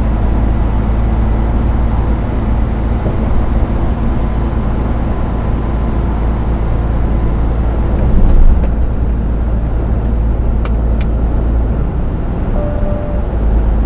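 Steady low rumble of a lorry's engine and road noise, heard inside the moving truck's cab. There are two faint clicks about ten seconds in and a short faint tone near the end.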